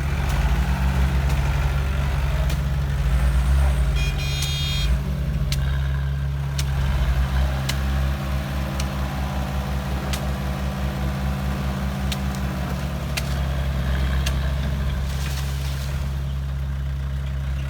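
Heavy diesel engine of construction machinery running steadily, with a pulsing low beat. Several sharp clicks or clanks sound over it, and there is a brief high-pitched whine or beep about four seconds in.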